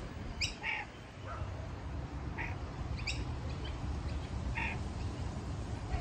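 A few short, high bird chirps, about four spaced across several seconds, over a steady low rumble.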